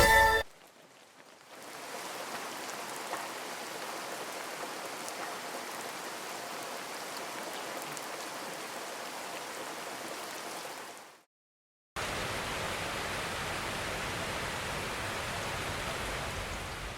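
Steady hiss of rain, cutting out for about a second near the middle, then returning louder and fuller.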